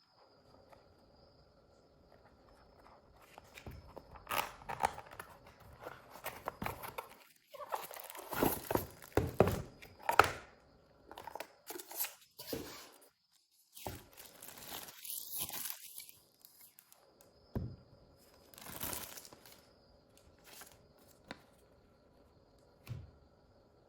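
Packaging being handled during an unboxing: irregular crinkling, rustling and tearing of wrapping, with a few knocks, loudest in the middle stretch.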